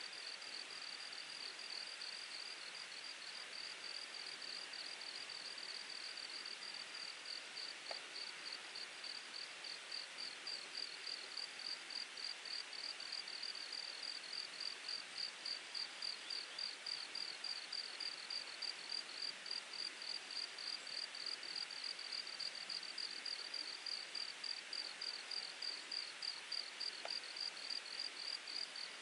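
An insect in the grass singing in a steady rhythm of high chirps, about three a second, getting louder about a third of the way in, over the continuous babble of a mountain stream.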